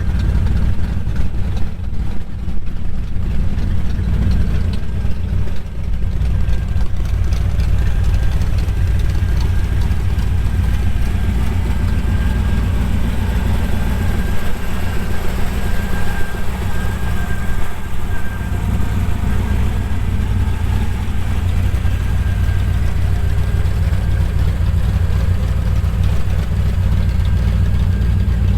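Chevrolet 350 small-block V8 with headers, dual exhaust and Magnaflow mufflers, running steadily: a low, even exhaust rumble.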